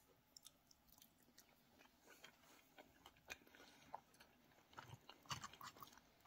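Faint chewing, with scattered small clicks, and a fork cutting into a soft, sauce-covered enchilada on a plate. The sounds get a little busier near the end.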